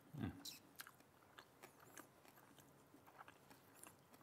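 Faint chewing of a grilled sardine: soft, scattered wet clicks of the mouth. Just after the start there is one short, dull thump, the loudest sound.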